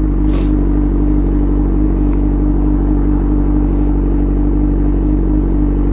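Suzuki GSX-R600's inline-four engine idling steadily with a low, even hum.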